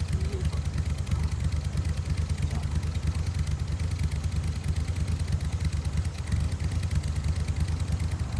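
Exhaust of a Toyota 86 (Hachiroku) at the muffler, the engine idling steadily with a rapid, even low pulsing.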